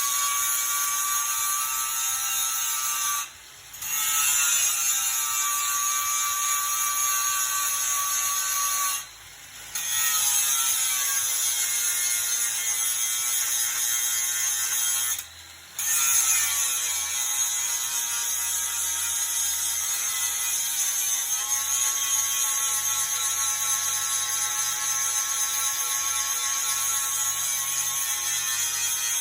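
Power grinder running continuously with a high whine whose pitch wavers, and a hiss of grinding. The sound drops out sharply three times for under a second.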